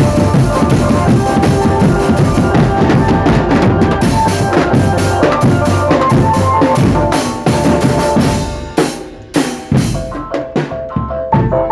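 Marching drum band playing: dense snare and bass-drum beats over a sustained melody line. About eight seconds in, the drumming thins to separate hits and grows quieter, then the full sound returns near the end.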